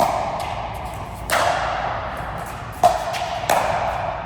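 Racket-sport rally: sharp ball strikes at uneven intervals of under a second to about a second and a half, each echoing in a large hall, with fainter taps between them.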